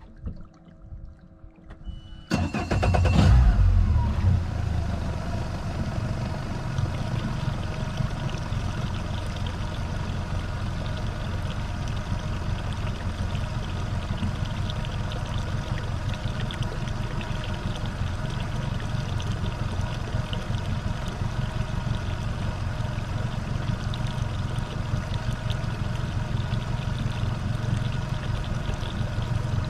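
Mercury 150 hp four-stroke outboard with over 500 hours on it starting about two seconds in. It revs up briefly, then settles into steady running.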